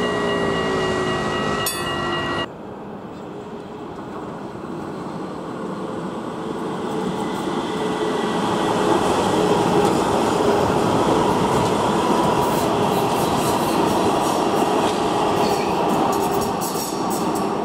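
Steady held tones that end at an abrupt cut about two and a half seconds in, then a vehicle's steady running rumble that swells, with a faint squealing tone. A rapid clicking joins it near the end.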